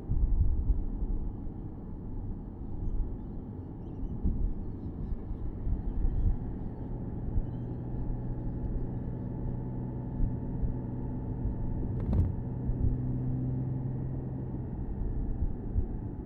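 Porsche Boxster S (987.2) flat-six engine running at steady cruising revs, heard from the open-top cabin under a low road and wind rumble. The engine hum is steadiest from about six seconds in, and there is one sharp click about twelve seconds in.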